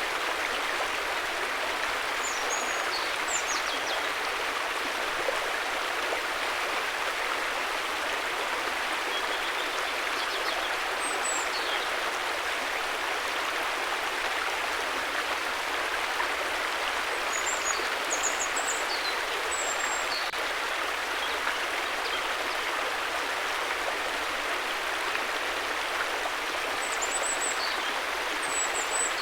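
River water flowing steadily, an even rushing hiss with no breaks. Brief, faint high chirps come through a few times over it.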